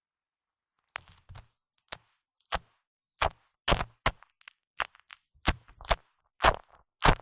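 Shaving foam pressed and squished against a microphone, giving about a dozen short, sharp crackling squishes one after another, starting about a second in.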